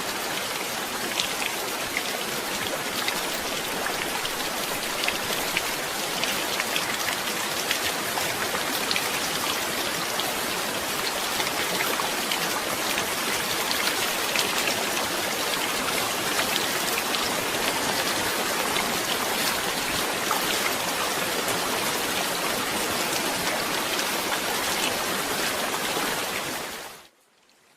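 Steady heavy rain falling, an even hiss with many individual drops ticking on a surface; it cuts off abruptly near the end.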